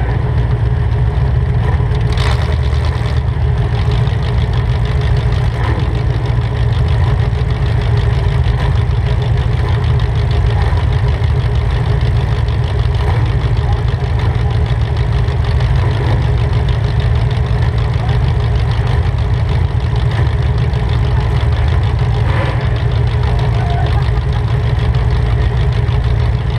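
Demolition derby car's V8 engine idling through open upright headers with no mufflers, a loud, steady, low rumble.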